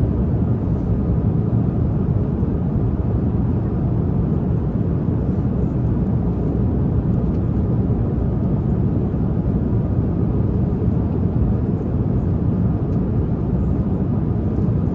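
Steady low rumble of an airliner cabin in flight: even engine and airflow noise with no change in level.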